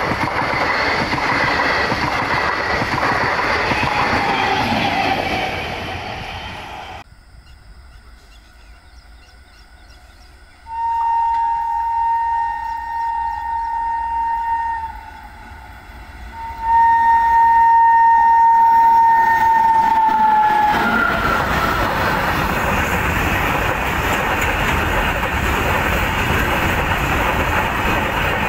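Passenger coaches rumbling past, fading away. After a cut, an approaching electric freight locomotive sounds two long horn blasts of about four seconds each, and then its freight wagons rush past close by, loud and steady.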